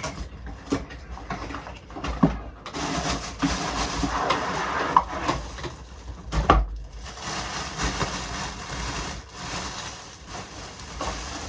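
A boxed kitchenware set being unpacked by hand: packaging rustling and crinkling, with scattered knocks and clicks and one sharper knock about six and a half seconds in.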